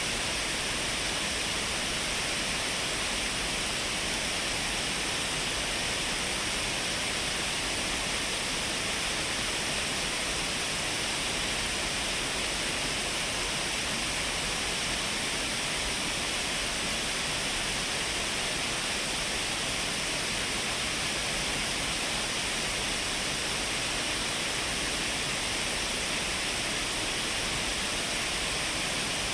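Shiraito Falls pouring steadily: an even, unbroken rush of falling water from many thin cascades over a cliff, heard binaurally.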